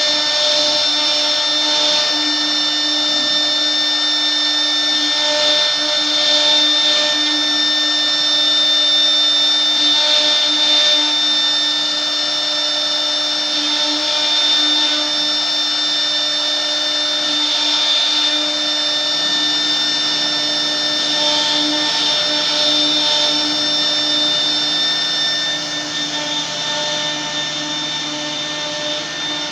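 1325 CNC router running: a steady, high spindle whine over a lower hum, with rougher cutting noise and tones that swell and fade about every four seconds as the machine works through its passes. It grows a little quieter near the end.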